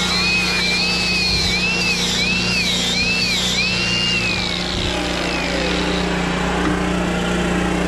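An engine running steadily, with a high whine over it that rises and falls in pitch several times, then fades out about four and a half seconds in.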